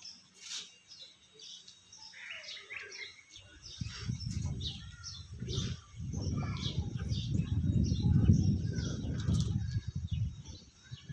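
Birds chirping in short, scattered calls throughout, while a low rumbling noise swells from about three seconds in, is loudest around eight seconds and fades near the end.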